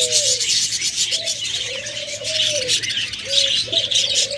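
Doves cooing in drawn-out low phrases about a second long, one after another, over the constant high twittering and chirping of many small cage birds in an aviary.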